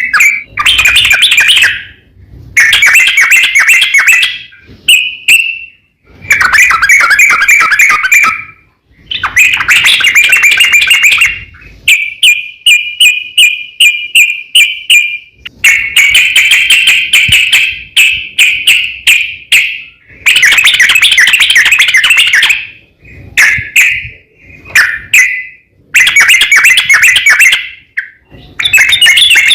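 Yellow-vented bulbul (trucukan) singing loud, long, rolling song phrases, one after another with short pauses. This is the long-phrased song used to call out rival males.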